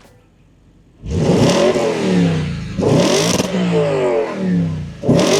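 A 2013 Audi RS5's 4.2-litre V8 starting up with a loud flare of revs about a second in, then blipped twice more. The pitch falls back after each surge, with the exhaust valves open in dynamic mode.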